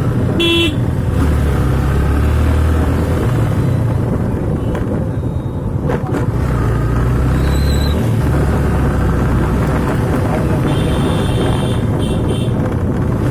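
Yamaha FZ motorcycle engine running while riding, its low note shifting several times as the speed changes. Brief high-pitched beeps sound about half a second in, near eight seconds, and in a short series near the end.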